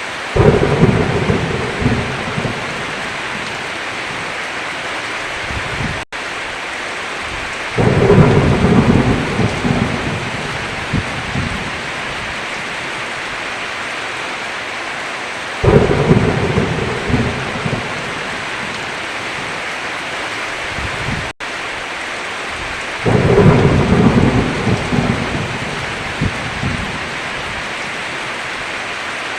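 Heavy, steady rain with thunder rolling four times, every seven to eight seconds. Each roll starts suddenly and rumbles away over a few seconds. Twice the rain cuts out for an instant.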